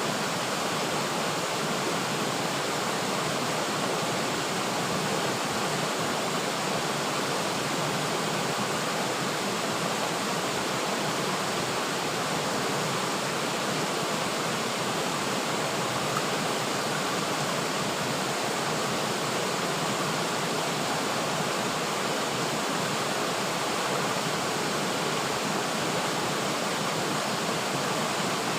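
River water flowing steadily, an even, unchanging rush with no separate splashes or events.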